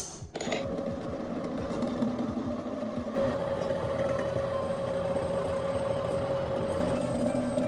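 A workshop power tool's motor running steadily with a constant whine, starting just after a sharp click.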